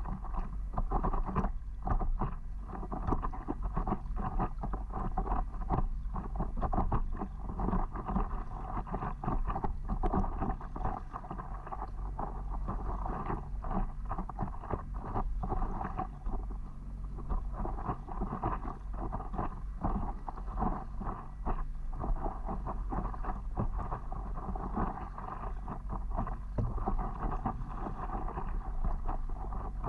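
Wind rumbling on the microphone over water splashing and lapping around a stand-up paddleboard as it is paddled, steady throughout with small irregular splashes.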